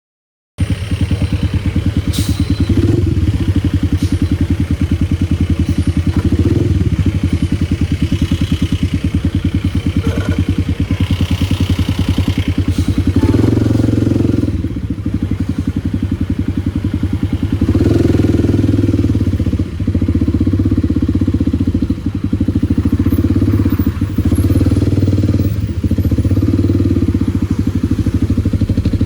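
Kawasaki D-Tracker 250's single-cylinder four-stroke engine running through a White Brothers aftermarket exhaust as the bike is ridden. The sound cuts in about half a second in. The engine note rises and falls, with several brief dips.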